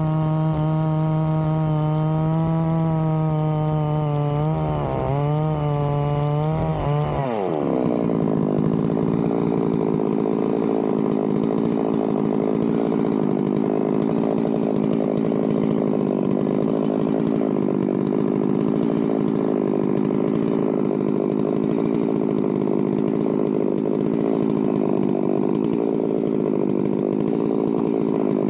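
Chainsaw running at high revs in a chainsaw mill: its pitch wavers, then drops about seven seconds in and holds steady and lower while it saws along the log.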